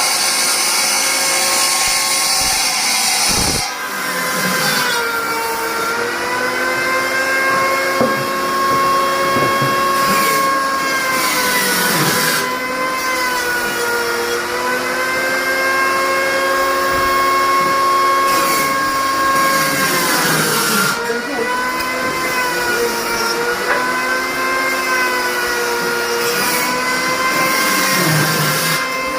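Band sawmill running with a steady machine whine whose pitch sags several times and recovers, as the drive slows under load during the cut. A harsher high hiss in the first few seconds cuts off abruptly.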